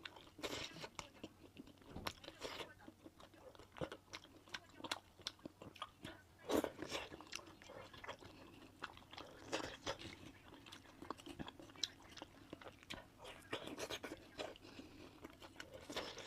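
A person biting and chewing food close to the microphone, with irregular sharp mouth clicks. The loudest bite comes about six and a half seconds in.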